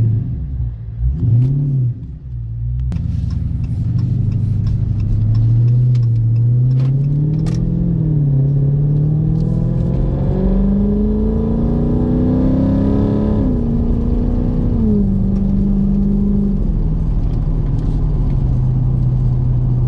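The Dodge Daytona 392's 6.4-litre HEMI V8 pulling hard under acceleration. Its pitch climbs steadily for about ten seconds, falls at an upshift a little past halfway, falls again at a second shift and then settles to a steady cruise.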